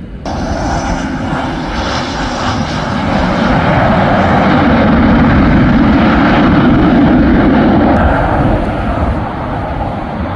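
Aircraft engine noise from an airplane passing close by. It is a broad rushing sound that swells to a peak mid-way and then fades.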